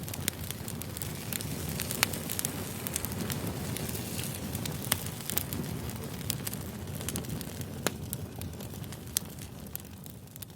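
Campfire crackling: a steady low rumble of burning wood with frequent sharp pops and snaps, a few of them louder. It fades down near the end.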